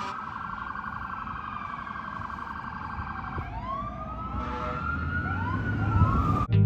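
Fire apparatus sirens sounding together as the trucks approach: a fast electronic warble over the slow rising and falling wail of a Federal Q2B mechanical siren, growing louder. Low air-horn blasts start near the end.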